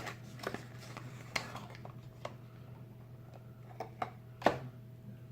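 Cardboard perfume box being opened and handled by hand: scattered light clicks and rustles, with one sharper knock about four and a half seconds in.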